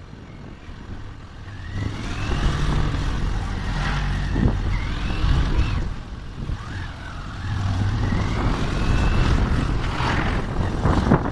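Motor vehicle engines in slow road traffic, with a steady low engine hum and a few rising whines along the way.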